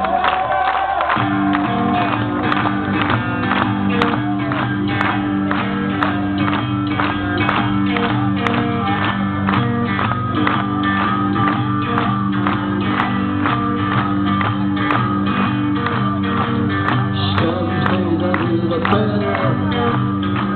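Live rock band playing the instrumental opening of a song: a steady beat with sustained guitar chords that come in about a second in.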